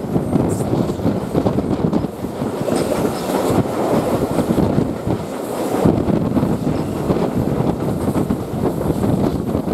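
Passenger coach rolling alongside a station platform, its wheels rumbling and clattering on the track.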